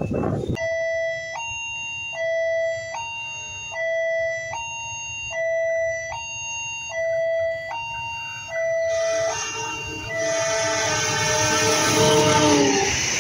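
An electronic level-crossing warning alarm sounding a steady two-tone chime, the pitch switching about every 0.8 s. About 9 s in, the Argo Bromo Anggrek's diesel locomotive sounds its horn, and its rumble builds as it passes close by. The horn drops in pitch as the locomotive goes past.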